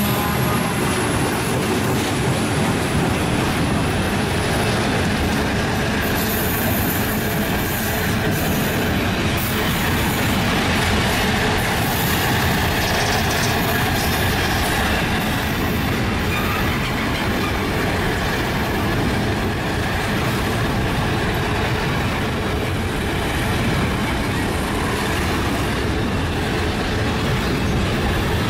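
Long freight train rolling past: a steady rumble and rattle of wagons running over the rails.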